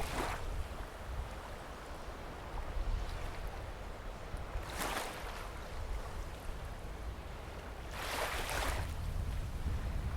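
Waves washing onto a sandy beach, three hissing surges a few seconds apart, the last one longest, over a steady low rumble.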